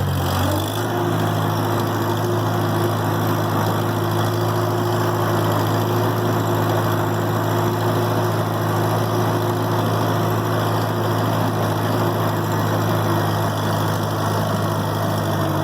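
1949 Farmall Cub's four-cylinder flathead engine running steadily under load while the tractor drives in gear, pushing snow with its front plow. There is a slight change in its note about a second in as it gets under way.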